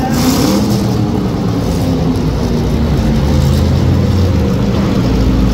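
Demolition derby car engines running loud and steady, with a brief rise in revs right at the start before settling.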